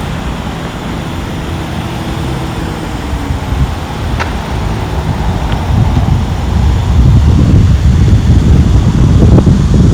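Street ambience with road traffic running past, an engine's hum faintly audible early on. A low rumble builds from about six seconds in and stays loud, with a couple of short clicks shortly before it.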